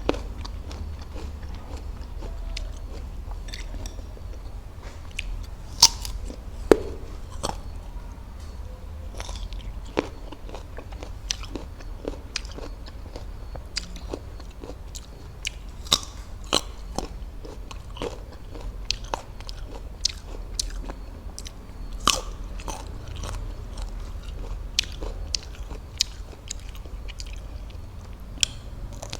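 Close-miked bites and chewing of crisp raw fruit: irregular sharp crunches and wet mouth clicks, with the two loudest bites about six and seven seconds in. A steady low hum sits underneath.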